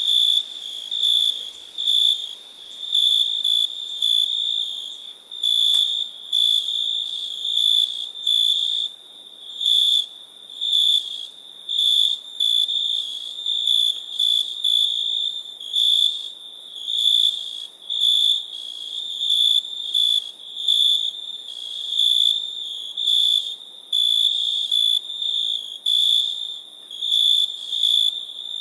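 Crickets chirping at night: a high-pitched trill pulsing in a steady rhythm of about one loud chirp a second, with fainter chirping between.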